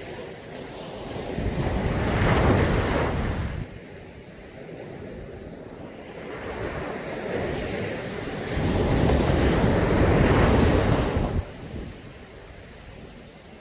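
Sea waves breaking on a beach twice, each wash of surf swelling for a couple of seconds and then falling away, the second dropping off suddenly near the end.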